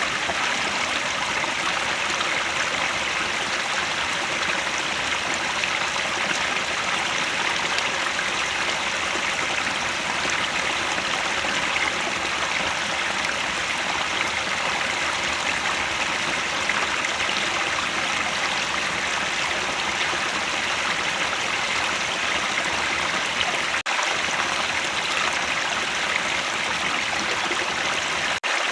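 Headwater stream flowing, a steady rush of running water, broken by two momentary drop-outs in the sound in the last few seconds.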